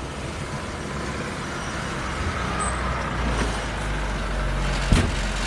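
Car engine running steadily as a sedan pulls up, with a single sharp thump about five seconds in.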